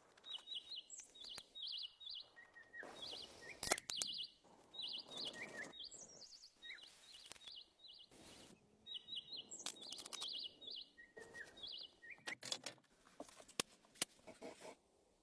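A small bird chirping in quick runs of three or four short high notes, repeated again and again. Now and then there are sharp clicks and short rustling or scraping noises.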